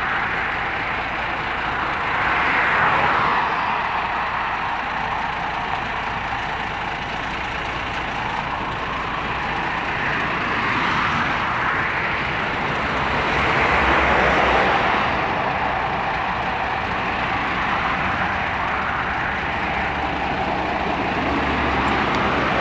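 Truck and road traffic noise: a steady low engine rumble under tyre and engine noise that swells and fades several times as vehicles pass.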